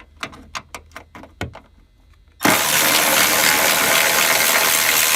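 A few light clicks, then about three seconds in a Milwaukee M12 cordless 3/8" ratchet runs steadily for about three seconds, backing out a 10 mm cowl bolt.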